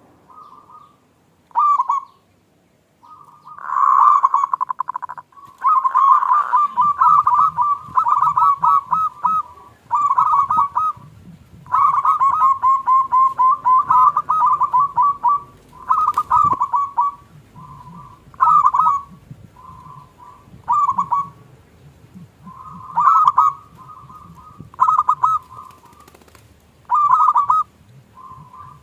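Zebra doves (perkutut) cooing: repeated bursts of rapid, pulsed coo phrases, all at much the same pitch, some running on for a couple of seconds. A single sharp click falls about halfway through.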